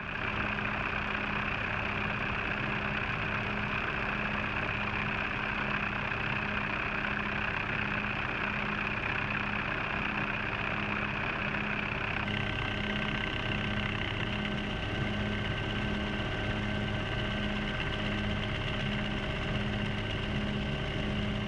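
Helicopter engine and rotor noise, a steady mechanical drone with a regular pulsing beat. Its upper tones shift slightly about twelve seconds in.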